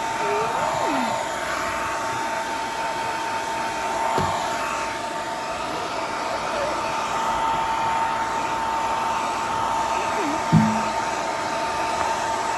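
Revlon handheld hair dryer with a diffuser running steadily, a constant whine over the rush of air. A brief thump about ten seconds in.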